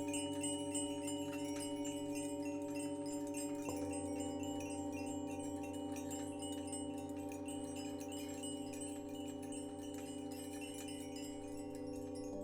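Singing bowls ringing in long, steady tones, with a fresh bowl struck about four seconds in. Light, tinkling chimes sound throughout over the bowls.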